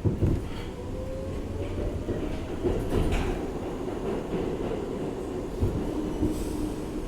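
R62A subway car running along the track: a steady low rumble with sharp knocks from the wheels passing over rail joints near the start and again twice near the end, and a faint whine rising in pitch in the first few seconds.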